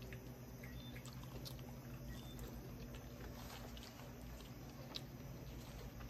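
Faint close-up chewing and small wet mouth clicks of someone eating sauced fried chicken wings, over a low steady hum.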